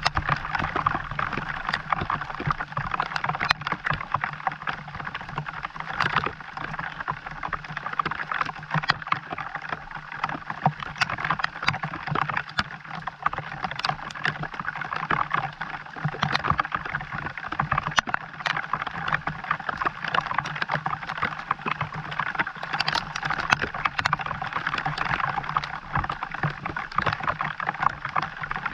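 Steady rain falling, with many separate drops striking close by, and a steady low hum underneath.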